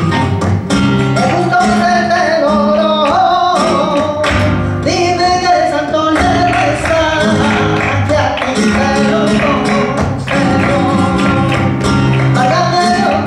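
Live flamenco music: a singer's voice, wavering in pitch, over a strummed acoustic guitar with sharp percussive strokes.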